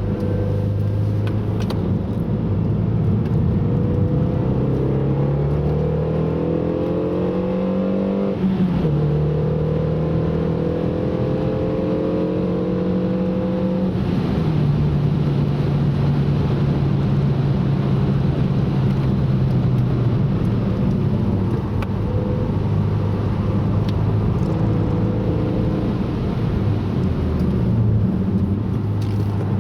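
Car engine heard from on board during a lap: it pulls with rising pitch, drops sharply at an upshift about eight and a half seconds in, climbs again, then steps down near fourteen seconds and eases lower, over a steady rush of tyre and road noise.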